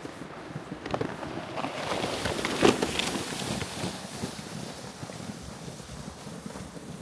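Footsteps crunching in snow, with a rush of wind that swells and fades in the middle and a sharp crunch at its peak.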